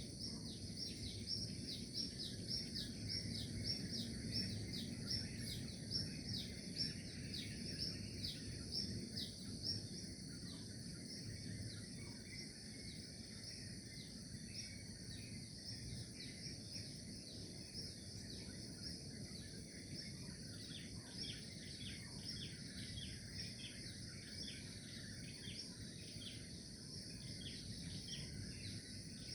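Songbirds chirping, many short quick downward chirps in rapid runs, busiest in the first ten seconds and again in the last third, over a steady high insect drone and low outdoor background noise.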